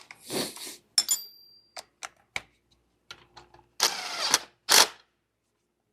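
Metal tool clinks, one with a short ring, then two brief bursts of a small cordless power tool running, typical of driving a 12 mm nut on the engine's power cable terminal.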